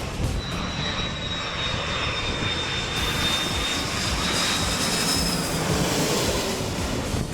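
Aircraft engines running, heard as a steady rush of noise with a thin high whine that holds and then fades out about five seconds in.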